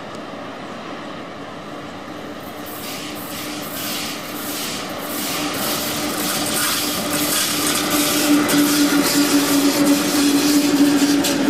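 Two VL10 electric locomotives hauling a freight train approach and pass close by. A steady hum grows louder, and from about three seconds in the wheels click over the rail joints in a quickening, strengthening clatter as the locomotives go past.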